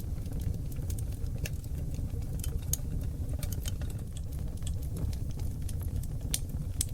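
Wood fire of seasoned oak logs burning in a fireplace: a steady low rumble of flames with irregular sharp crackles and pops from the burning wood.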